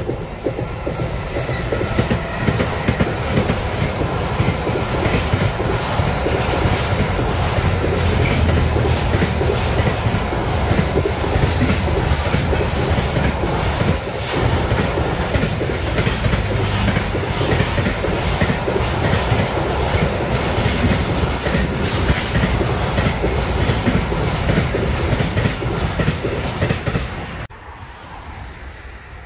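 Electric freight train passing close by: an electric locomotive followed by a long line of pocket wagons carrying lorry semi-trailers, its wheels clattering in a steady rhythm over the track. The noise drops away suddenly near the end as the last wagon goes by.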